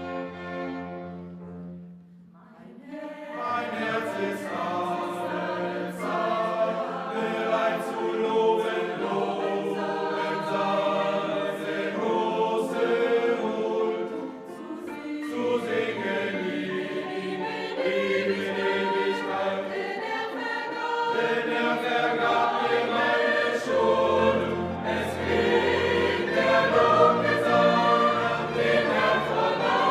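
Background music: a piece with strings fades out, and about two seconds in a choral piece with many voices singing begins and carries on.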